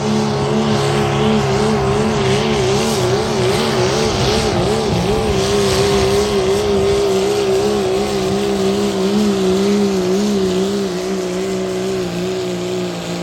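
High-horsepower truck engine held at steady high revs, with a wavering squeal over it for a few seconds; it cuts off abruptly at the end.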